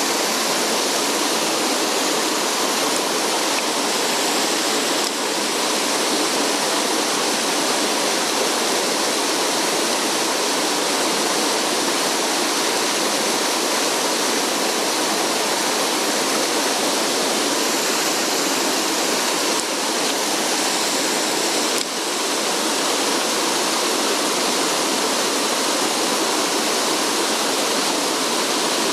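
Rushing water of a mountain stream: a steady, even rush with no break.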